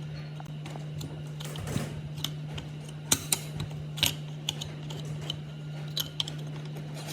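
Irregular sharp metallic clicks and clinks of hand tools and metal parts being handled, some ringing briefly, over a steady low hum.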